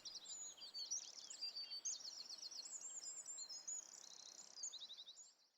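Songbirds singing: a quick run of high chirps and trills, one after another, cutting off shortly before the end.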